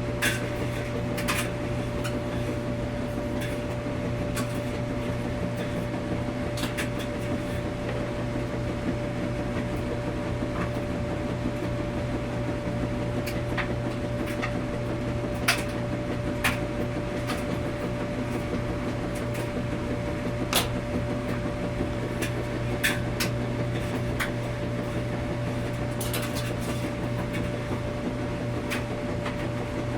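Washing machine running with a steady hum and a low drone, with a light click or knock every few seconds.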